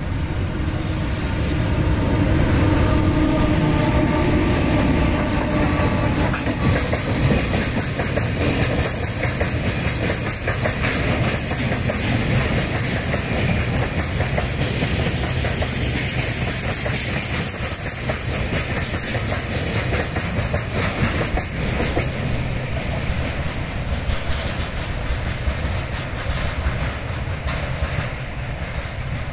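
EH500 electric freight locomotive passing close by, followed by a long train of oil tank wagons whose wheels clack over the rail joints in a steady rhythm. It grows loud about two seconds in and fades over the last several seconds as the train draws away.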